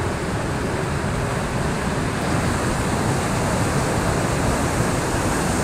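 Steady rush of river water and waterfall, with wind noise on the microphone.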